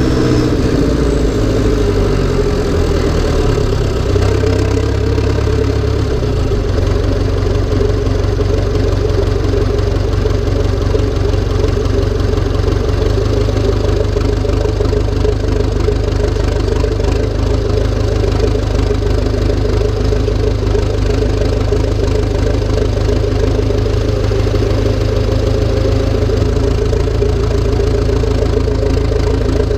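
Massey Ferguson tractor's diesel engine running, its revs falling in the first couple of seconds, then running steadily with a low, even beat.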